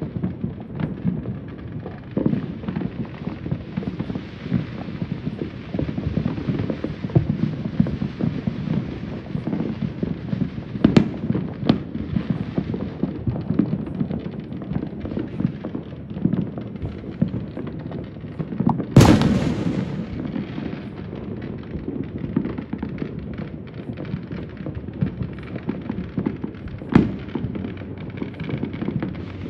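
Fireworks and firecrackers popping and booming all over the city, a dense unbroken crackle of many overlapping reports with a few sharper cracks. About two-thirds of the way through comes one much louder sharp bang that rings on briefly.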